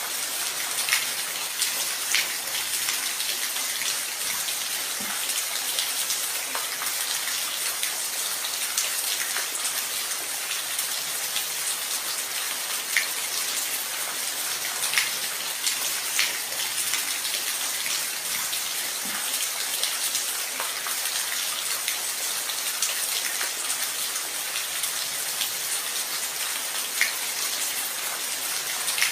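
Steady rain, an even hiss with scattered close drops landing now and then.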